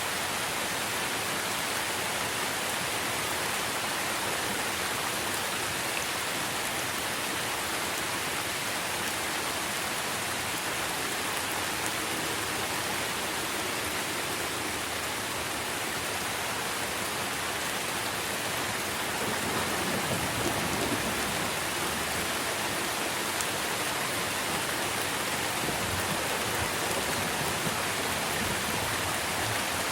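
Steady rain pattering on tree foliage, an even hiss throughout. A low rumble of distant thunder swells briefly about two-thirds of the way through.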